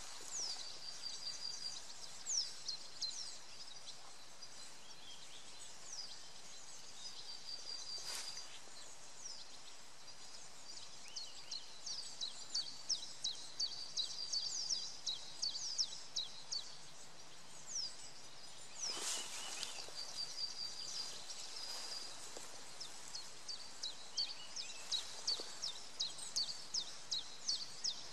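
Small songbirds singing: rapid high-pitched chirps that fall in pitch, repeated many times, and a steady high trill, over a faint outdoor background hiss.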